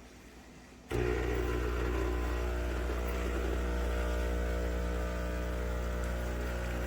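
Espresso machine's pump switching on abruptly about a second in and running with a steady, loud buzzing hum.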